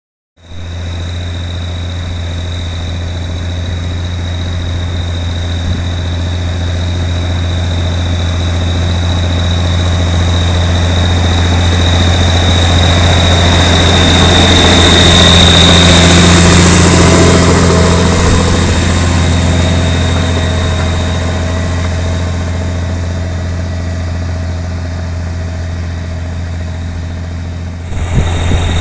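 New Holland TS135A tractor's diesel engine running steadily while ploughing, with a steady high whine above the low engine note. It grows gradually louder to a peak about halfway, then eases off again.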